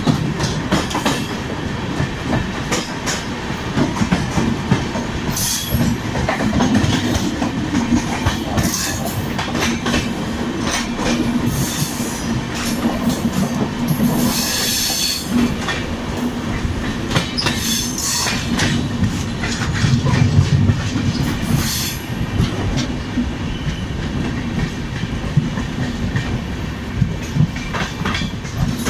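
Express train running at speed, heard from an open coach doorway: wheels clattering over the rail joints in a steady clickety-clack, with a steady low hum, while a second train runs alongside on the next track. About halfway through comes a brief high-pitched wheel screech.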